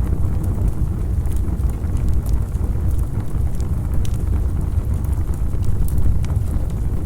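Campfire burning: a steady low rumble with scattered sharp crackles and pops from the wood.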